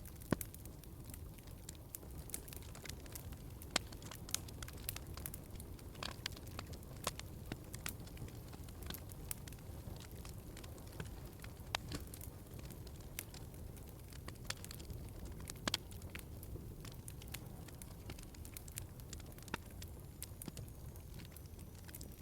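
Wood fire burning in a fireplace: irregular sharp crackles and pops over a soft low rumble of flame.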